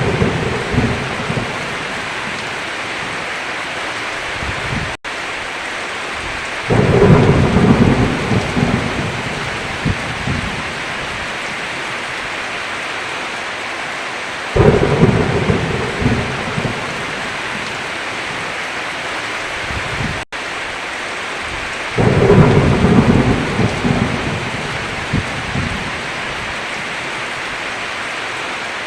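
Heavy rain falling steadily while thunder rumbles in three times, each starting suddenly and fading over a few seconds. The sound cuts out for an instant twice.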